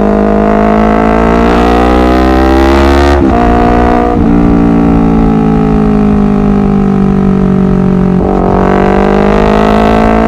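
Honda CBR250RR parallel-twin engine pulling hard, its pitch climbing steadily and dropping sharply at an upshift about 3 seconds in and again near 8 seconds in.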